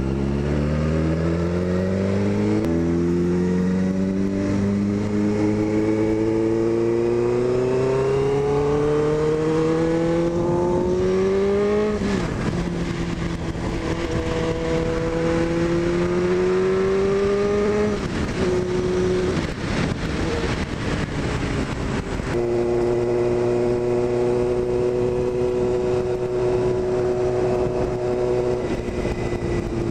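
Suzuki GSX-R600 inline-four motorcycle engine pulling away and accelerating. Its pitch drops at an upshift a couple of seconds in, then climbs slowly for several seconds. After a couple of further rises and dips it eases off, then settles to a steady cruise in the last third.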